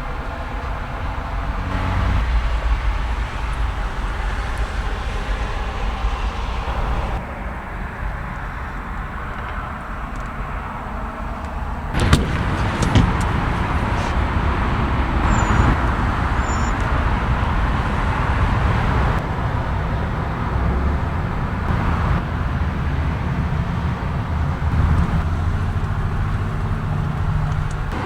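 A car engine running steadily, its sound shifting abruptly a few times, with a sharp click about twelve seconds in.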